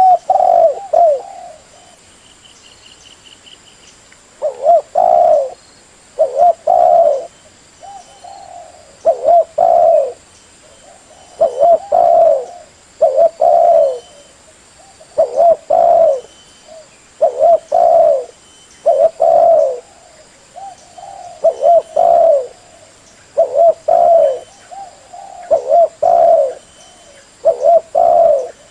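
Spotted dove (tekukur) cooing: the same short phrase of low coos repeated over and over, about one phrase every two seconds, after a pause of a few seconds near the start.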